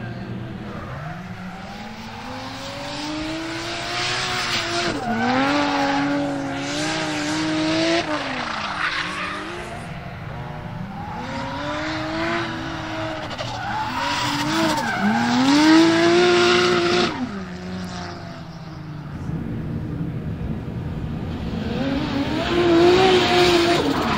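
Turbocharged Toyota 2JZ-GTE inline-six in a BMW M3 E46 revving hard and falling back several times while drifting, with tyres skidding and squealing.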